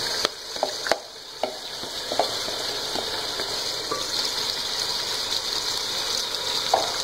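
Yogurt-marinated chicken hitting hot oil and fried onions in a cooking pot, sizzling, with several sharp knocks of the bowl and wooden spatula against the pot in the first few seconds. The sizzle then builds into a steady frying hiss as the chicken is stirred.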